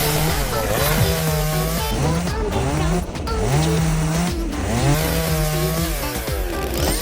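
Chainsaw running and cutting, its motor pitch sagging and climbing back again and again as it bites and frees, over background music.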